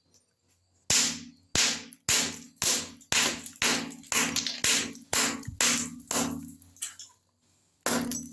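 A run of sharp knocks, about two a second, each ringing briefly, with a gap near the end before one more knock.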